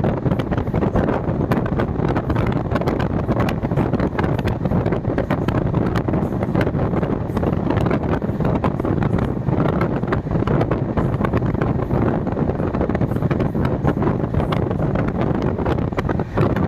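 Wind buffeting the microphone: a loud, steady, gusty rumble with no break.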